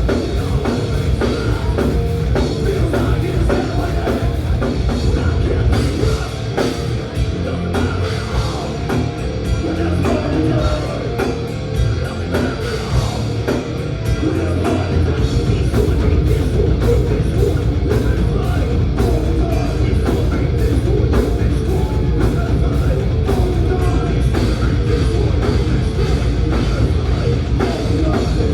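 Thrash metal band playing live: distorted guitars, bass and a pounding drum kit. The low end gets heavier and a little louder about halfway through.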